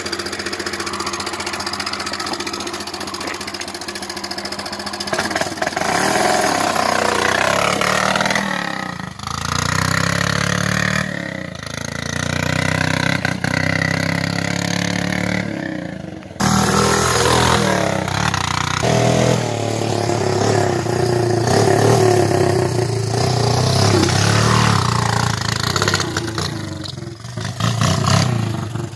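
Honda 300EX ATV's single-cylinder four-stroke engine running straight-piped with no muffler, revving up and down repeatedly.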